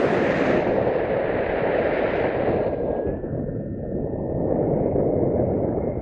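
Strong wind rushing over the microphone, a continuous rumble, with a faint steady high tone running underneath.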